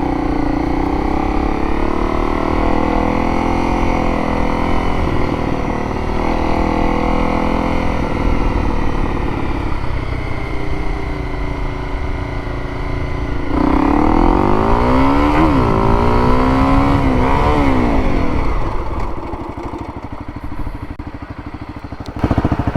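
Motorcycle engine running at low speed through slow manoeuvres. About 13 s in it revs hard in a quick acceleration, the pitch climbing, dipping and climbing again. A few seconds later it drops back to a quieter, lower running.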